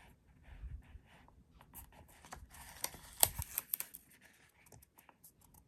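Paper and a sticker sheet being handled: soft rustling and crinkling with small, sharp clicks, busiest around the middle.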